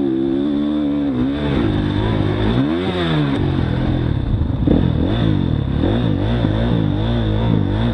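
Motocross dirt bike engine revving up and down as the throttle is worked, its pitch rising and falling in several swings, with a large rise and drop about two to three seconds in and quicker swings after the middle.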